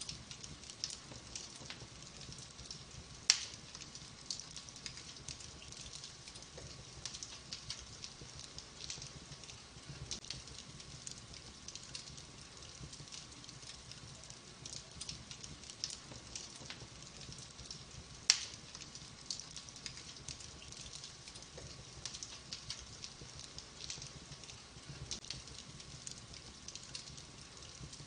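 Burning logs in a wood fire crackling with many small pops, and two louder sharp pops, one about three seconds in and one about eighteen seconds in.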